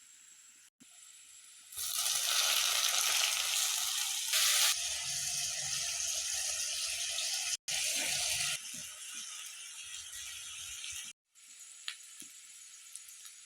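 Mushrooms sizzling as they fry in a pan: a steady sizzle, loudest from about two seconds in, weaker after the middle and faint near the end, broken by short cuts.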